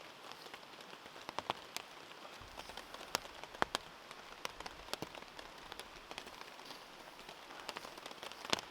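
Steady rain falling, with single drops tapping sharply and irregularly on a surface close by.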